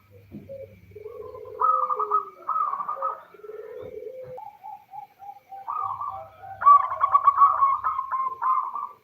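Female zebra dove (perkutut) calling in repeated rolling, trilled coos, with lower, shorter coos between the phrases and the densest, loudest run of trills in the last third. The call is a female's call to males, used to get male zebra doves to answer.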